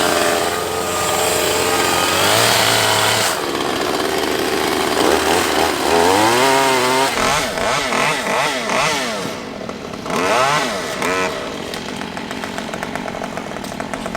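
Chainsaw engine running, revved up and down several times through the middle, then dropping back to a quieter, lower steady run near the end.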